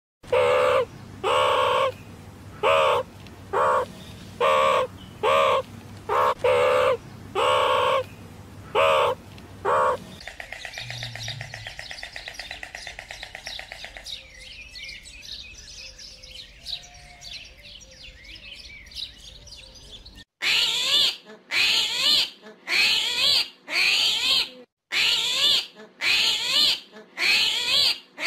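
Animal calls in several runs: short calls repeated about every half second for ten seconds, then a fast trill, then faint high chirps, and from about twenty seconds in a run of loud chirping calls with quick sweeps in pitch.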